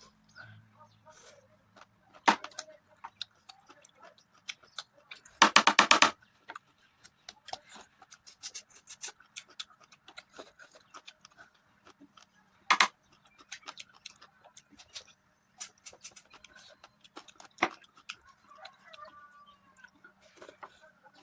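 Close-miked eating sounds: wet mouth clicks, smacks and chewing of mutton curry with rice. A rapid rattling burst comes about five seconds in, and several single loud clicks are scattered through.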